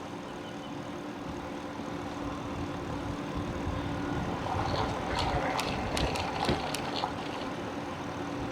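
Steady motor hum that grows gradually louder, with a scatter of sharp clicks and clanks between about five and seven seconds in.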